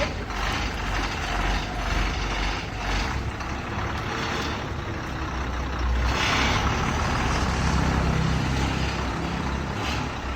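Ashok Leyland Viking bus's diesel engine running with a steady low rumble. There is a short burst of hiss about six seconds in, and the engine note rises briefly around eight seconds.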